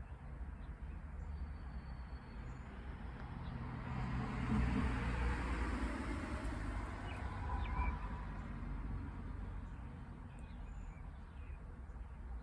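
A vehicle passing by, its noise swelling about four seconds in and fading away over the next several seconds, with a few faint bird chirps.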